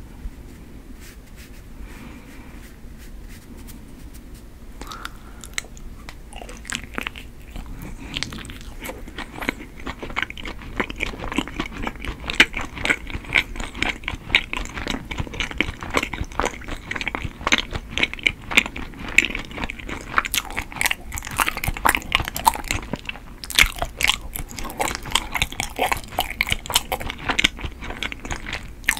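Close-miked chewing of chewy, sweet Korean rice cake (tteok): a dense run of short mouth clicks that starts about five seconds in and gets busier and louder.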